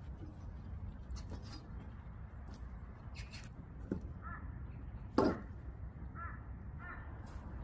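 Outdoor ambience with a steady low rumble, in which birds give short calls again and again from about four seconds in. A single loud, sharp knock comes about five seconds in.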